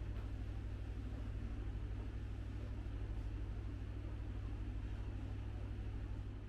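A steady low mechanical rumble with a fast, even pulse, like an engine running.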